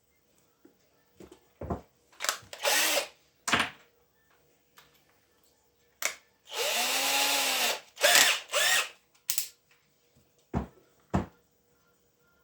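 Small handheld power tool, drill-like, run in several short bursts that spin up and wind down, the longest about a second and a half near the middle. Two sharp knocks follow near the end.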